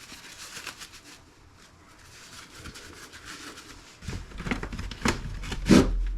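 Faint rustling, then from about four seconds in a run of sharp cracks and knocks as the plastic case of an old Dell laptop is broken apart by hand.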